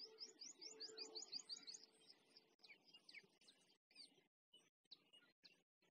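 Faint small birds chirping: a quick run of about ten short rising notes in the first two seconds, then scattered single downward chirps.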